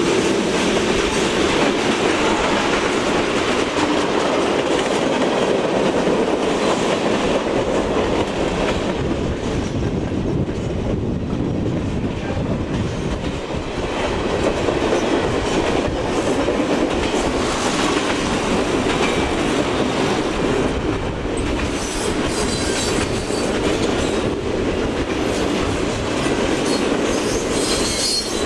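Freight train cars rolling past, steel wheels clacking over the rail joints in a steady loud rumble.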